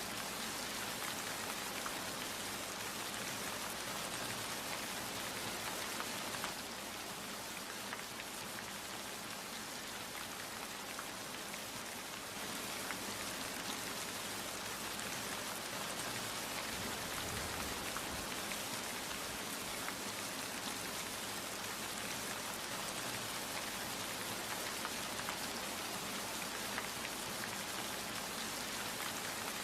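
Steady rain falling, a dense hiss of many drops striking a surface with fine individual droplet ticks; it eases slightly for a few seconds a little after the start before returning to the same level.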